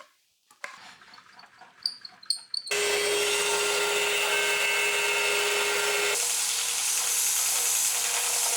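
A few light knocks of wood being handled, then an electric power tool starts running at a steady speed with a constant whine, loud and even; about six seconds in its sound shifts abruptly to a slightly higher whine and keeps running.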